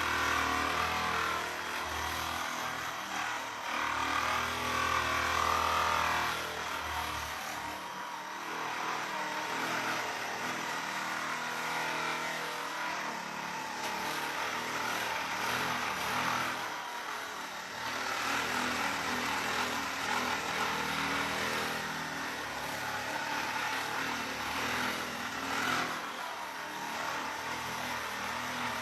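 Electric percussion massage gun running against the back, a continuous motor buzz whose sound changes every several seconds as it is moved and pressed.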